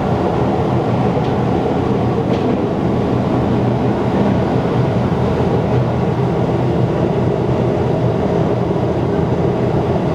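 Rhaetian Railway train running at steady speed: a continuous rumble of wheels and running gear with a low hum, holding level throughout, and a faint click about two and a half seconds in.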